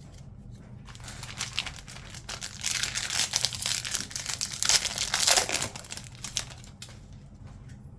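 Crinkling of a plastic-foil trading card pack wrapper as it is torn open and handled, loudest in the middle.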